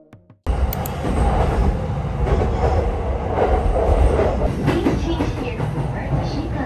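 Train running on the rails: a loud, steady low rumble that starts abruptly about half a second in, after a brief tail of music.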